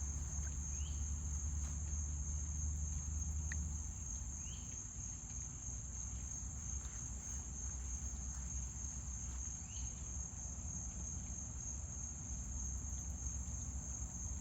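Steady, unbroken high-pitched insect chorus, with a low rumble for the first four seconds or so and a few faint short chirps.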